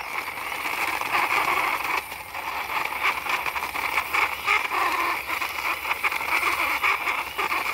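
Small plastic wheels of a toy motorbike rolling and scraping along the ground as it is pushed by hand: a steady gritty rolling noise dotted with small clicks.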